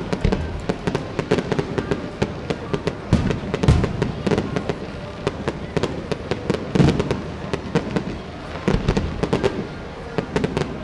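Aerial fireworks going off: a rapid string of sharp crackles and pops, with heavier booms of bursting shells a few times along the way.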